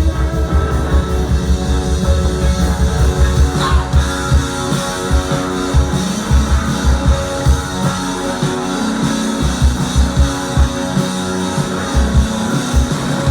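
Live rock band playing: guitars ringing over a drum kit, with a steady kick drum beat.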